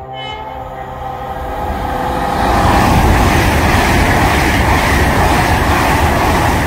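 LNER Class 801 Azuma electric train running through the station at speed: a rushing rumble of wheels on rail that builds over the first couple of seconds as it arrives, then holds loud while the carriages pass.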